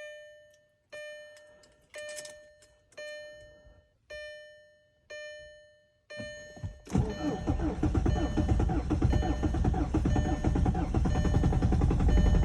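A dashboard warning chime dings about once a second, then the starter cranks briefly and the VW Passat TDI diesel engine catches about seven seconds in from a cold start at about −10, running loudly with a rapid diesel clatter.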